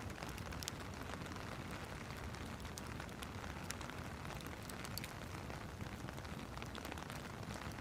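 Steady rain hiss mixed with a wood fire crackling: scattered sharp pops and snaps at irregular moments over the even patter.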